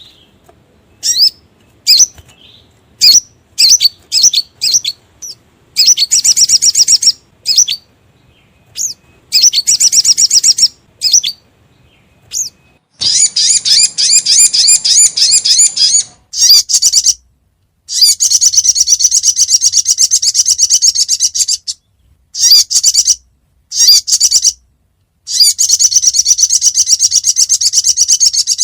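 Recorded song of the sogon (sogok ontong), played as a bird-luring call: short high chirps at first, then long, fast, high trills of a few seconds each, broken by brief pauses.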